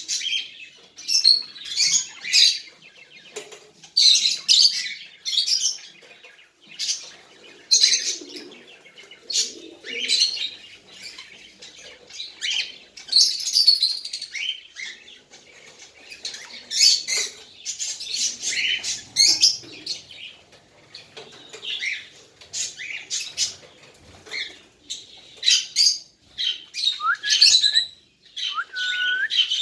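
Baby cockatiel calling: many short, hissy chirps in quick runs, with a couple of rising chirps near the end.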